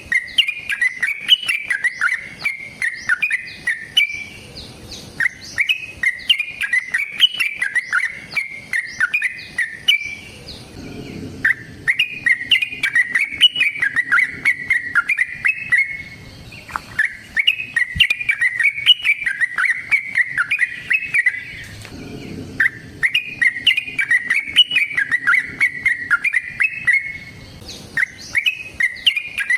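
Yellow-vented bulbul (trucukan) singing long runs of rapid, chattering notes, each run lasting about four to five seconds with short pauses between.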